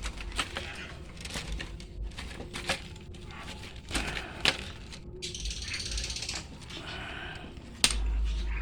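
Scattered sharp clicks and knocks. A bit past halfway comes a brief high, rapid bird chatter, followed by a short higher call, and a loud click near the end.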